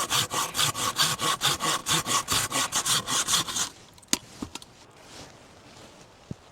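Hand saw cutting through wood in quick, even strokes, about five a second, stopping a little under four seconds in; a sharp knock and a couple of faint taps follow.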